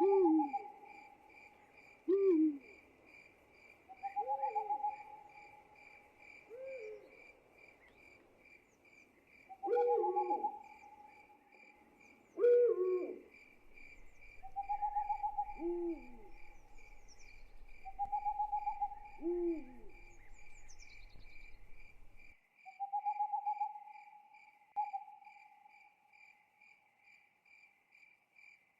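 Owl hooting again and again over the steady, fast chirping of crickets. Shorter, lower calls that fall in pitch come between the hoots and stop about twenty seconds in.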